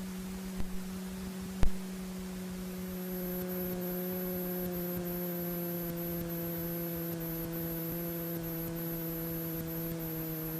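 Steady electrical hum in the Sting light sport airplane's cockpit audio feed during the landing, with a short thump about a second and a half in. Further steady tones and a faint high whine join about two and a half seconds in.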